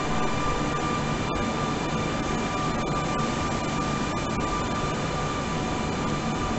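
Koleje Śląskie electric multiple unit pulling out of the station, moving away: steady rumbling rolling noise with a high, even electrical tone over it and a few faint clicks.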